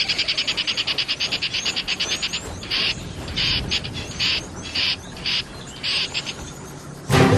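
Natural wildlife calls from a small animal: a fast, high trill of about ten pulses a second, then a string of six short buzzy bursts about half a second apart. Music comes in near the end.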